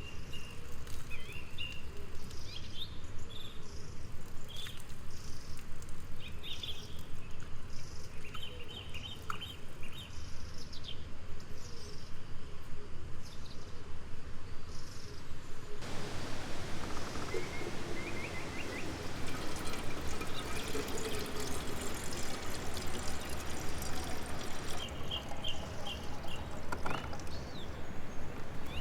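Small birds chirping and calling again and again over a steady background noise. The background grows louder all at once about sixteen seconds in.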